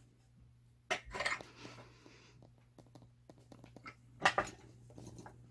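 Metal clinking and clanking as a steel dishwasher door spring and hand tools are handled: a sharp clank about a second in with a short rattle after it, small ticks, then another pair of clanks a little past four seconds.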